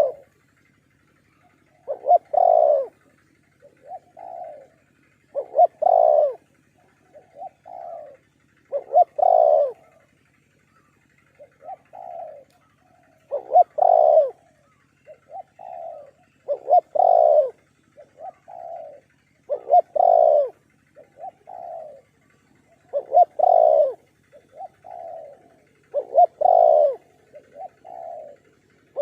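Spotted doves cooing. A loud multi-note coo phrase comes about every three and a half seconds, with fainter coos in between, as of a second dove answering.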